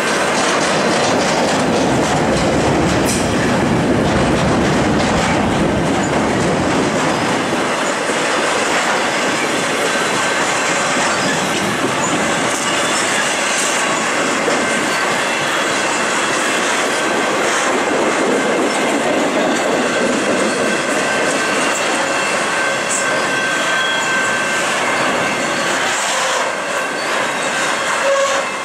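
Intermodal freight cars carrying truck trailers and double-stack containers rolling past close by: a steady din of steel wheels on rail with clickety-clack over the joints, a thin high wheel squeal, and now and then a sharp clank.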